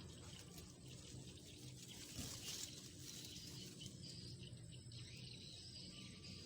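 Faint outdoor background noise, with a brief rustle about two seconds in.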